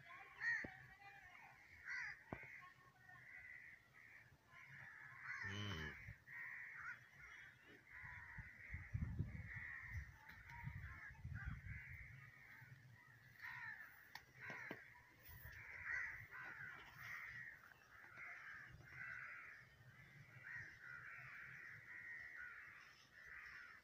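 Faint background of birds calling, many overlapping calls going on without a break, with a few low rumbles about nine to twelve seconds in.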